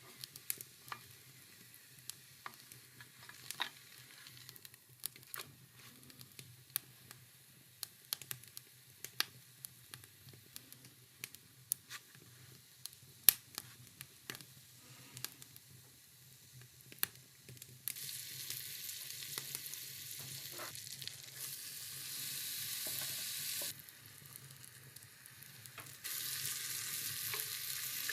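Scattered small clicks and taps over a faint low hum, then food sizzling loudly in a hot pan from about two-thirds of the way in, breaking off for a couple of seconds near the end before sizzling again.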